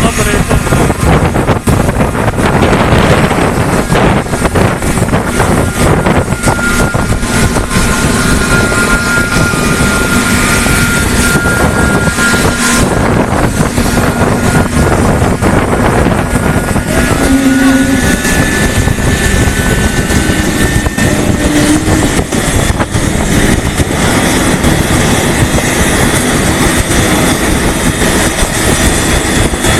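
Aircraft engine running loud and steady close by, with a few faint steady tones in the noise.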